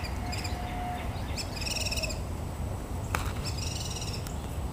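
A bird calling: three short runs of rapid, high calls about a second and a half apart, over a steady low background rumble. A single sharp click comes a little past the middle.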